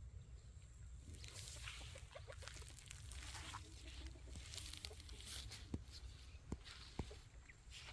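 Faint soft clucking of bantam chickens, with rustling from about a second in and a few sharp taps in the second half.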